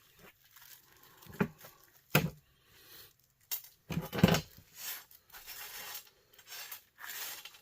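Small metal parts from a dismantled electric heater being handled and tossed onto a scrap pile: a handful of sharp clinks and knocks, the loudest about four seconds in. Rustling and scraping follow as pieces are sorted.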